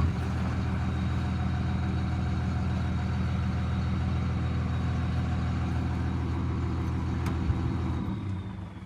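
Truck engine running steadily at a low idle, then falling away near the end.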